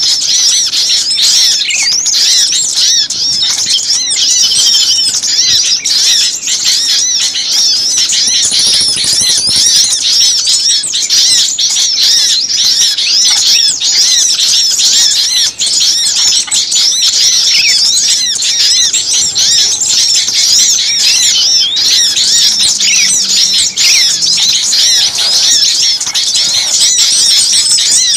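A dense chorus of many small songbirds calling at once: rapid, high, overlapping chirps and twitters with no pause, the kind of agitated, noisy mixed-flock recording played to lure small birds.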